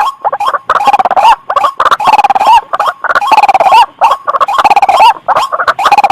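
White-breasted waterhen (ruak-ruak) calling loudly: bouts of rapid, harsh repeated notes with a wavering pitch that hooks upward at the end, about one bout a second. This is a played-back lure call for attracting the bird.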